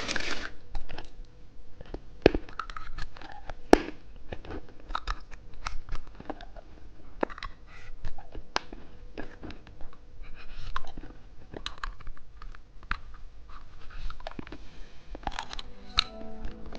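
Watermelon bubble gum being bitten and chewed: irregular crunches and sharp mouth clicks, with no steady rhythm.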